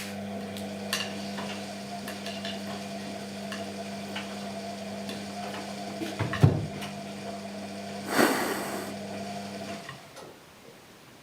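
Washing machine running: a steady motor hum with scattered clicks and knocks, a loud thump about six and a half seconds in and a brief hiss around eight seconds, then the motor hum stops near the end.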